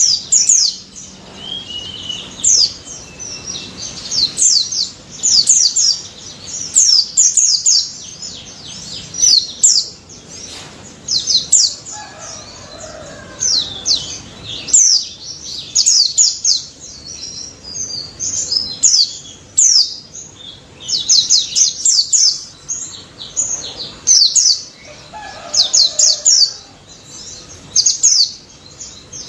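White-eye (pleci) singing: quick bursts of high, sharply falling notes, fired in clusters with short pauses between them.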